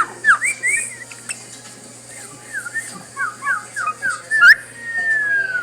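Cockatiel whistling: a few quick up-and-down notes, then a run of about six short falling notes, ending in one long whistle that glides down in pitch.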